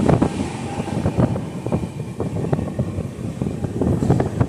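Passenger train coach running along the track, heard from on board: a steady rumble with irregular knocks and rattles of the wheels over the rails.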